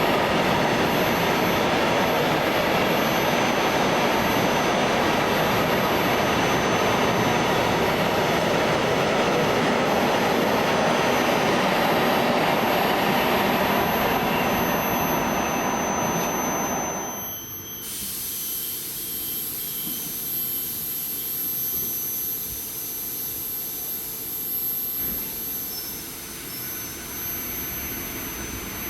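A train passing close by with a loud, steady rushing rumble that falls away suddenly about 17 seconds in. A quieter run-down follows, with a thin high steady whine throughout.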